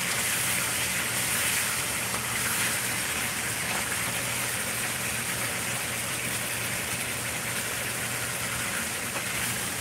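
Chicken pieces sizzling in sauce in a frying pan, a steady hiss, while a wooden spatula stirs them.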